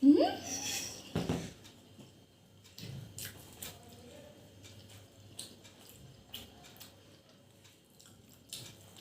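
Eating at a meal of luchi and cholar dal: quiet chewing with scattered small clicks of fingers and food against a plate. A short rising 'mm' of a voice comes at the very start, and a louder knock about a second in.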